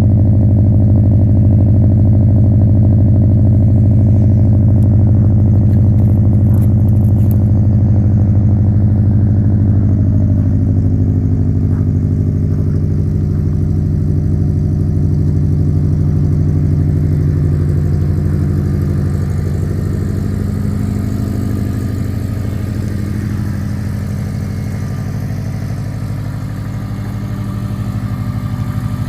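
Engine idling steadily just after a cold start, slowly getting quieter for most of the span, then a little louder again near the end.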